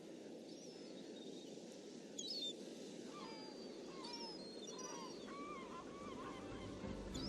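Birds calling in short chirps and squawks over a steady low rushing noise, starting about two seconds in with one louder call, then several quicker calls; music comes in at the very end.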